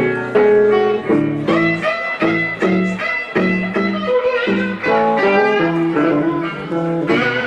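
Chicago blues band playing live, with an electric guitar in front playing single-note lines.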